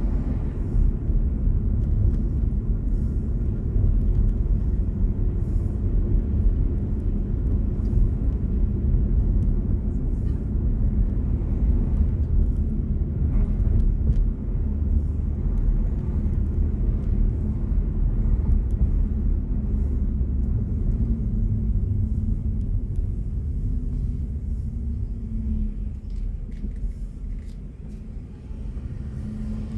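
Steady low rumble of tyre and road noise from a moving BMW i4 M50, an electric car with no engine sound, easing off briefly near the end as it slows.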